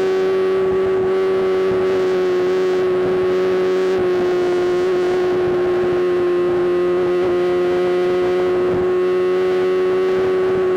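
BMW M1000RR's inline-four engine running at steady high revs while cruising, a constant droning note that barely changes pitch.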